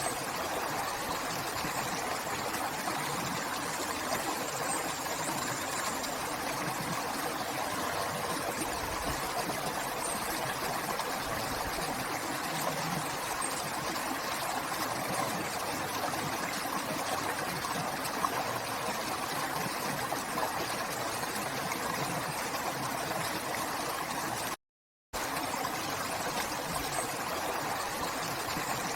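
River water flowing in a steady, even rush, with a half-second dropout to silence near the end.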